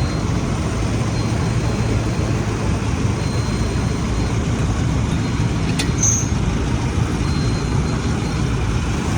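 Tractor diesel engine running steadily and loudly, with a faint high thin tone coming and going over it and a single sharp click about six seconds in.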